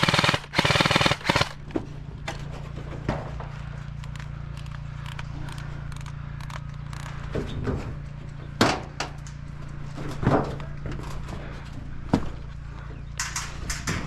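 Airsoft guns firing: a rapid full-auto burst in the first second and a half, then scattered single shots and short bursts, and another quick burst near the end. A steady low hum runs underneath.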